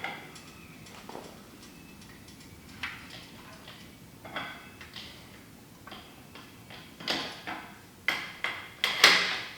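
Metal clanks and knocks from handling and fitting together the sections of a trailer's hydraulic landing-gear leg. A few separate knocks come first, then a quick run of several louder clanks near the end.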